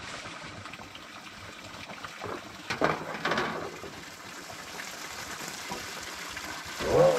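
Running water, a steady rushing, with a few louder splashy sounds about three seconds in and a short pitched call near the end.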